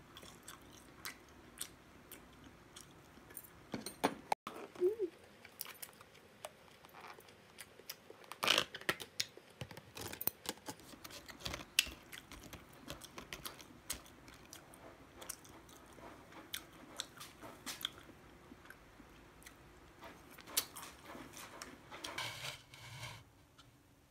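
Close-up eating sounds: chewing and crunching of fried chicken and cabbage salad, with scattered sharp clicks of chopsticks and a fork against plastic takeout containers.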